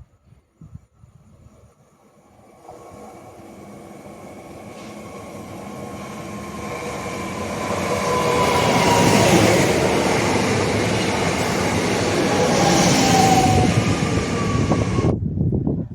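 Train approaching and running past, a rumble and hiss that grow steadily louder over several seconds, with thin whining tones that slide down in pitch, then cut off suddenly near the end.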